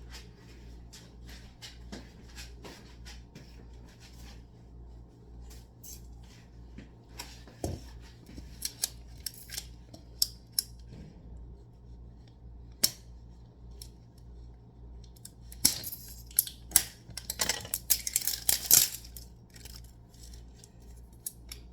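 Kitchen handling sounds: scattered clicks, knocks and clinks of utensils and containers being moved about, getting busier with clattering and rustling about three quarters of the way through, over a steady low hum.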